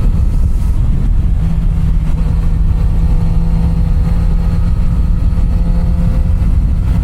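Kawasaki Z900 RS Cafe's inline-four engine running at a steady cruising speed, its note holding one pitch, heard from the rider over a heavy low wind rumble on the microphone.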